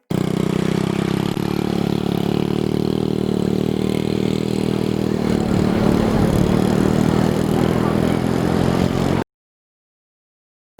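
An engine running steadily at a low, even speed, starting abruptly and cutting off suddenly about nine seconds in.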